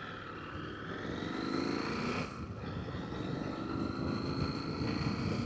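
Motorcycle engine running under way, its pitch rising over the first two seconds, then a brief drop about two seconds in like a gear change before it carries on steadily. The rider calls the engine ticky and overdue for a service.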